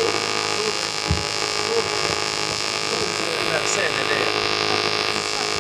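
A steady hum with many tones stacked one above another, under a faint murmur of voices.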